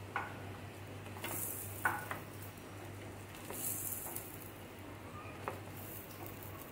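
Chicken kababs sizzling in shallow oil in a frying pan, the sizzle flaring up briefly twice. A few light knocks and scrapes of a wooden spatula against the pan as the kababs are lifted out.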